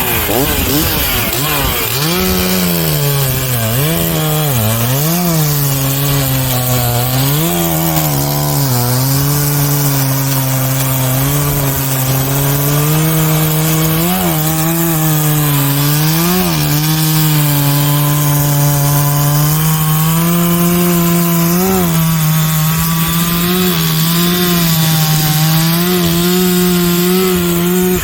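Gas chainsaw cutting through the trunk of a fallen tree, its engine pitch dipping again and again as the chain bites into the wood and recovering, then holding steadier at full throttle in the cut.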